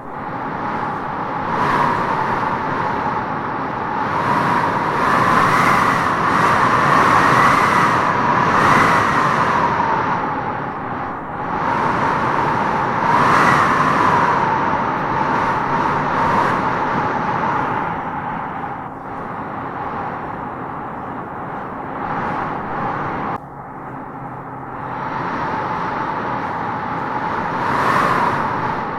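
Howling wind gusting through trees: a steady rush with a whistling howl that swells and dies away in several gusts, strongest about five to nine seconds in.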